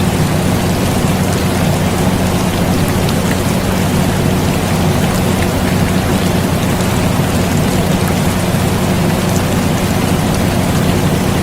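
Steady rain mixed with the constant low hum of an air conditioner, unchanging throughout.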